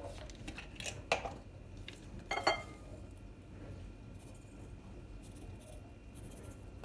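Kitchenware being handled: a few sharp clicks and knocks, the loudest just after a second in, a short clatter around two and a half seconds, then faint rustling.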